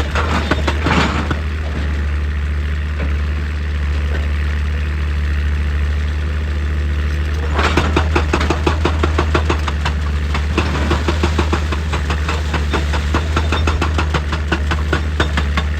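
Heavy diesel excavator engine running steadily, with a rapid clattering knock over it. The clatter eases off for a few seconds and comes back strongly about seven and a half seconds in.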